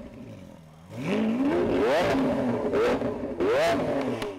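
Lamborghini Aventador S V12 revving through a custom titanium and Inconel exhaust: three revs, each climbing in pitch and falling back, with sharp cracks near the peaks. The sound fades out at the very end.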